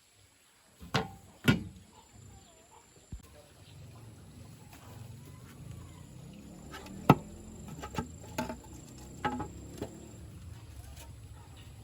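A series of sharp knocks: two about a second in, then a cluster later on, the loudest a little past halfway, over a low rumble.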